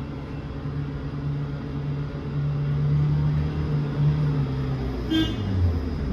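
City bus engine running as the bus drives, heard from inside, with a steady low hum that swells in the middle. A short high beep sounds about five seconds in.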